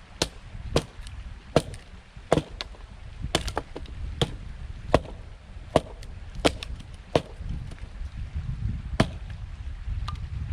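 Wood being chopped: about a dozen sharp strikes of a blade into wood, roughly one every half second to second, thinning out after about seven seconds. A low rumble of wind and stream runs beneath.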